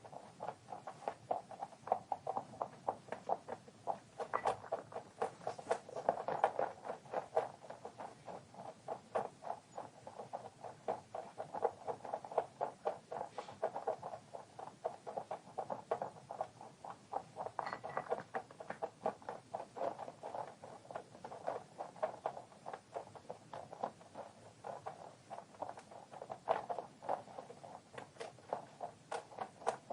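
A rabbit chewing its food: a steady run of small crunching ticks, several a second.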